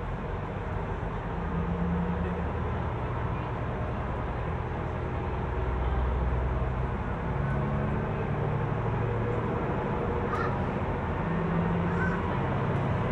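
Local train pulling away from the station and accelerating, heard from inside the carriage: a low drive hum that steps up and down in pitch over a steady running rumble that grows a little louder.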